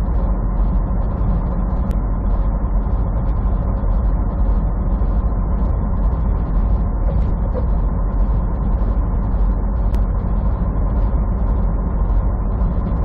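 Semi truck on the move, heard from inside the cab: a steady low drone of the engine and road noise that holds even throughout.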